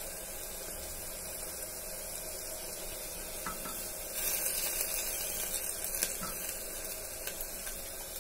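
Chopped onions sizzling in hot mustard oil in a steel pot, with a few light clicks of a steel ladle against the pot. About four seconds in, as ginger-garlic paste is added, the sizzle grows louder and hissier for a couple of seconds, then settles back.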